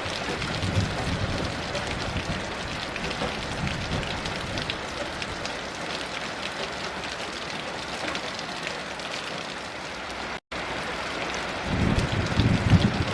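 Heavy rain falling steadily in a dense hiss of drops. Low rumbles of distant thunder swell about a second in and again near the end, the later one louder. The sound cuts out to silence for an instant a little after ten seconds.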